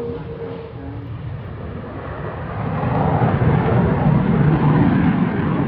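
Jet aircraft flying a display pass, a steady roar and rush of engine noise that swells from about halfway through.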